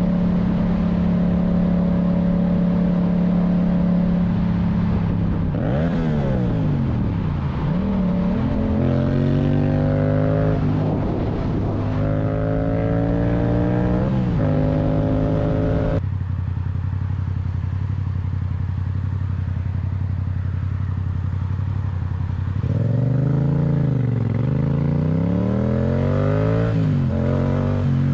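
Motorcycle engine running steadily, then accelerating through the gears: its pitch climbs and drops again several times. About halfway through the sound changes abruptly to a steadier, lower note, and near the end the engine is revving up and down again.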